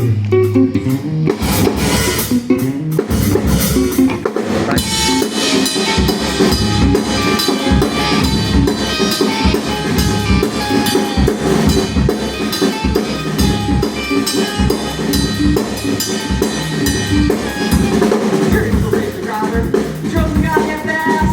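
Rock band playing an instrumental passage, with a drum kit beating out a busy rhythm over heavy bass; the drums come in about a second in.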